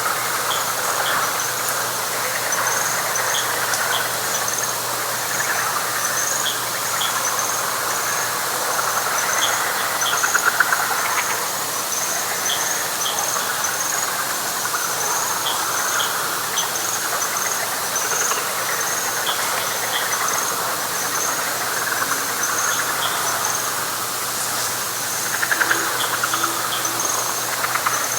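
Night chorus of frogs and insects in a wet pine flatwoods: an even, rapidly pulsing insect call sits high above a dense mass of frog trills. The frog trills swell louder about ten seconds in and again near the end.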